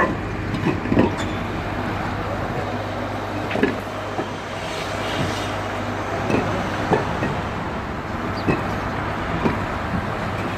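Steady outdoor din with a low hum, broken by about a dozen sharp knocks at irregular intervals.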